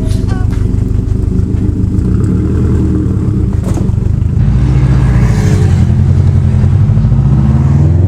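A 2016 Subaru STI's turbocharged 2.5-litre flat-four engine running loud through a straight-through ETS Extreme cat-back exhaust with no mufflers or resonators. The engine note rises in pitch and gets louder from about halfway through.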